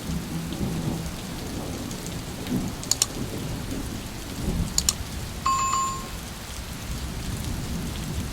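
Steady rain with low rolling thunder. Two pairs of sharp clicks come about 3 and 5 seconds in, and a short high ding about 5.5 seconds in.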